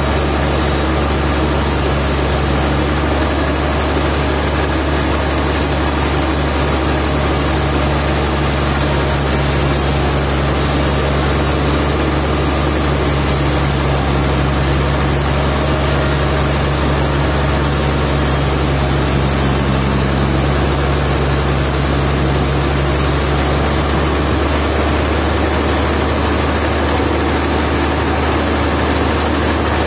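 Sawmill machinery running: a steady low engine drone under a constant harsh hiss. Part of the low hum drops out about 24 seconds in.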